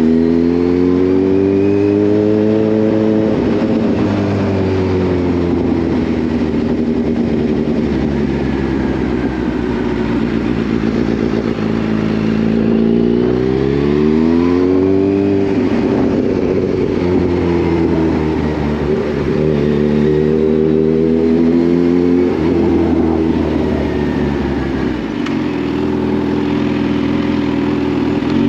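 Kawasaki Z H2's supercharged inline-four engine on the move, its pitch climbing under acceleration and then dropping back several times as the throttle is opened and eased. Near the end it dips briefly, then starts climbing again.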